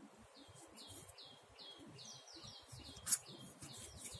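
A small bird chirping over and over: a steady series of short, high notes, each falling in pitch, about three a second. One sharp click about three seconds in is the loudest sound.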